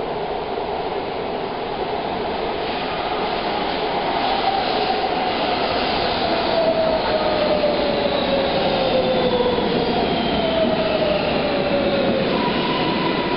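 MARTA rapid-transit train running, heard from inside the car: a steady rush of wheels on rails, with a whine that slowly falls in pitch through the middle and a steadier higher tone near the end.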